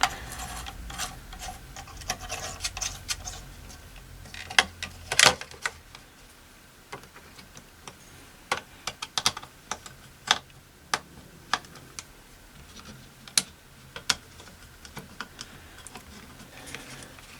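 Irregular sharp clicks and taps of small plastic and metal parts being handled as the dial lamps are fitted back into a radio chassis, with a few louder knocks about five seconds in.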